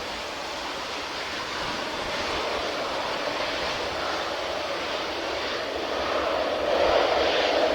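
Airliner engine noise: a steady rushing drone that grows louder near the end.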